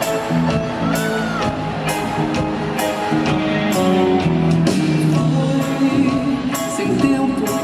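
Live band music with a steady beat and held chords during an instrumental passage, with crowd voices and whoops mixed in.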